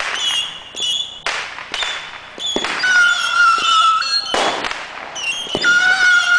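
Fireworks going off: a rapid string of sharp bangs and crackles, with shrill whistling fireworks sounding over them. The longest whistles come twice, each holding for about a second.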